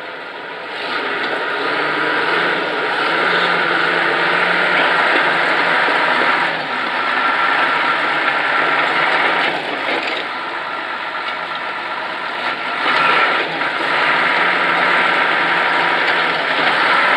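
Case 1150C crawler tractor's diesel engine running. It picks up and gets louder about a second in, then holds loud with a few brief dips.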